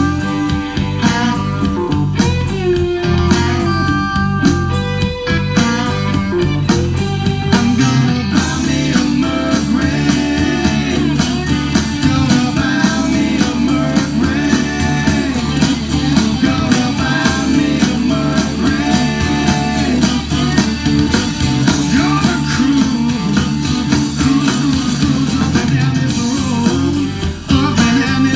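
Blues-rock music with guitar, played back through a Pioneer SX-434 stereo receiver and Klipsch Forte loudspeakers.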